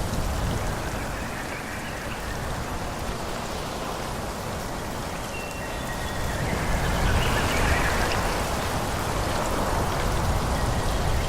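Wind blowing through forest trees, a steady rushing of leaves and branches with a low rumble, swelling into a stronger gust about six seconds in.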